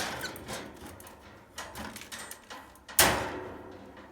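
A wire birdcage door and bars being handled with light rattles and clicks, then a sharp clack about three seconds in as the cage door is shut.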